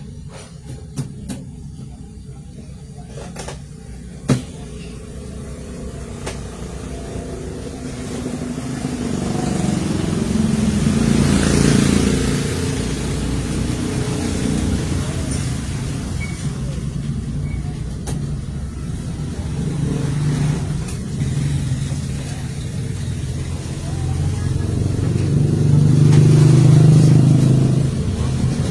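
A low, engine-like rumble that swells and fades twice, with a few sharp clicks near the start.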